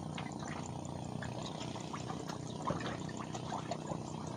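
Water splashing and dripping: a steady wash of water with many small scattered drips and splashes, one a little louder about two-thirds of the way through.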